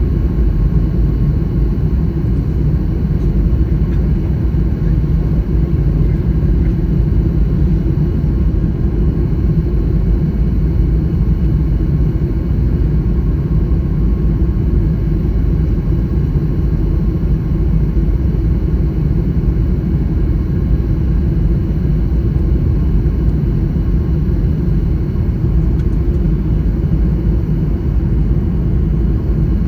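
Steady low rumble of a Boeing 737 MAX 9's engines and airflow heard inside the passenger cabin.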